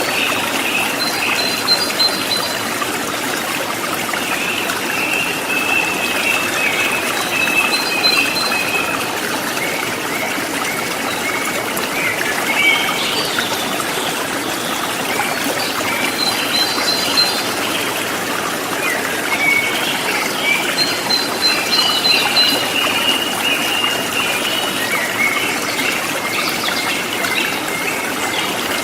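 River water running over rocks in a steady rush and gurgle. High chirping calls come and go over it.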